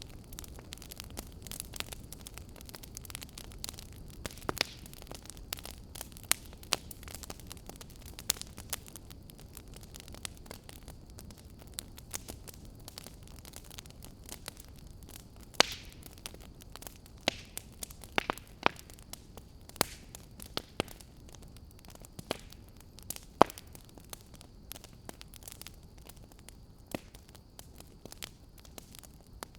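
Wood fire burning in a fireplace: irregular crackles and sharp pops over a low steady rumble and hiss.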